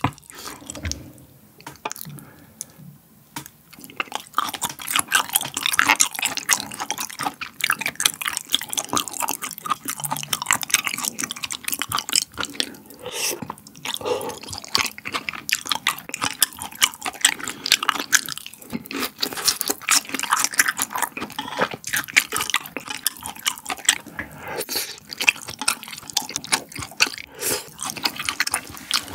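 Close-miked wet chewing of raw beef: a dense run of small moist mouth clicks and smacks, quieter for the first few seconds and then continuous from about four seconds in.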